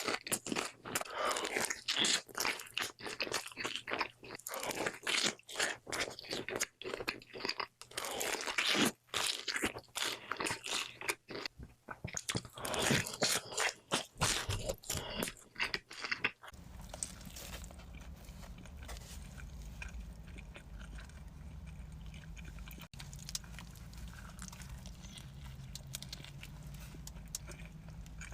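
Close-miked eating of crispy-crust pizza: a dense run of loud crunching bites and chewing. About two-thirds of the way through it cuts to softer chewing over a low steady hum.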